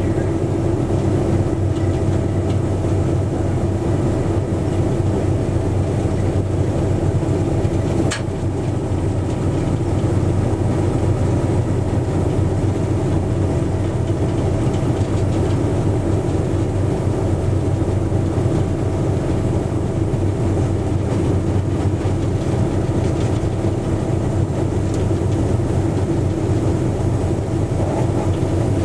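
Train running steadily: a constant diesel-engine drone with rail and wheel noise, and one sharp clank about eight seconds in.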